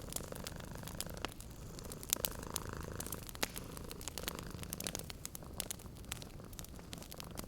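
Domestic cat purring steadily, with the scattered sharp crackles and pops of a wood fire.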